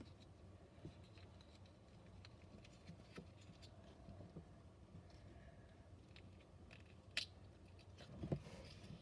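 Faint handling of a cardboard playset as its panels are folded: scattered soft taps and creases over a low room hum, with a sharper click about seven seconds in and a knock near the end.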